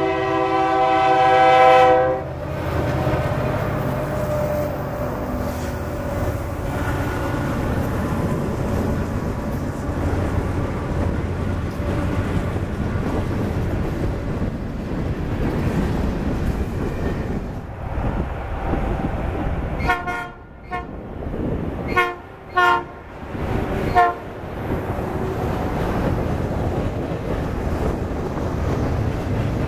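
Diesel locomotive air horn blowing a chord until about two seconds in, then a freight train passing with a steady rumble of wheels on rail. About two-thirds of the way through, a few short horn toots come with abrupt breaks in the sound.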